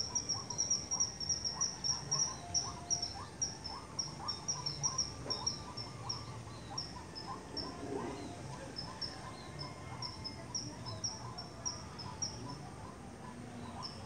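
A bird known locally as sri mbombok calls in a long, even series of short high notes, about three a second, stopping shortly before the end. Fainter, lower chirps repeat underneath.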